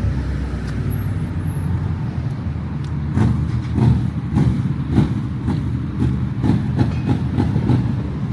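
Hyundai i20's engine and exhaust running loudly as the car moves off, a steady low drone with short sharp knocks about twice a second in the second half.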